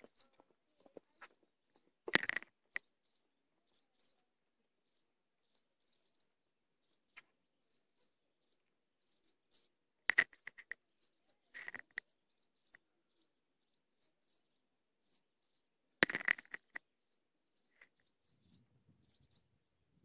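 Small birds chirping with short, high calls over and over, broken by a few louder, harsh bursts about two, ten, twelve and sixteen seconds in.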